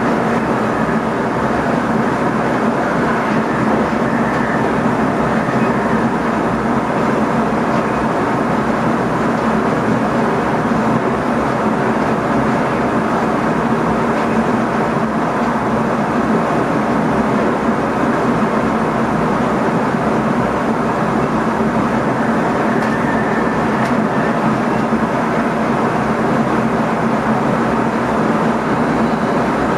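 Steady running noise inside the driver's cab of an NS ICM (Koploper) electric multiple unit under way: a constant rumble of wheels on rail with an even hum underneath.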